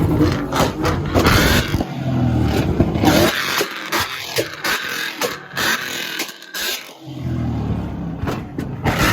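Ford Mustang revved against a two-step launch limiter: a steady engine note broken by rapid exhaust pops and bangs. Around the middle the engine note drops away and only scattered cracks are left. It comes back about seven seconds in.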